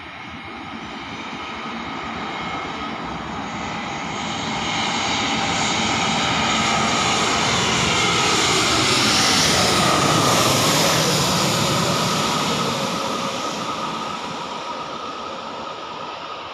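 Airbus A320 jet engines passing by on landing approach, the sound swelling to its loudest about ten seconds in and then fading, its whine dropping in pitch as the aircraft goes past.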